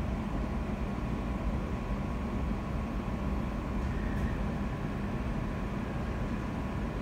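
Interior running noise of a London Overground Class 710 electric multiple unit: a steady rumble of the wheels on the track, with a steady low hum.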